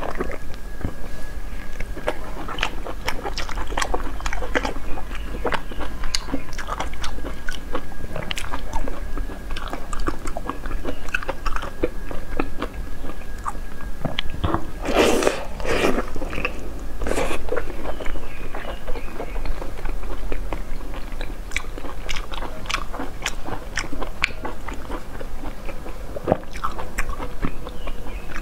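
Close-miked mukbang eating: wet biting, chewing and lip-smacking on soft, sticky braised meat, a dense run of small irregular clicks with louder bursts about halfway through.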